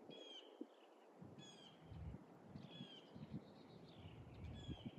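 Faint bird calls: a short, high chirp repeating about once a second, over a faint low background rumble.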